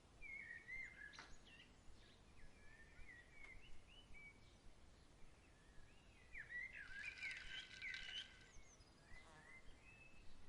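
Songbirds singing softly: short chirped and warbled phrases that glide up and down, with a busier, louder run of song about two-thirds of the way through.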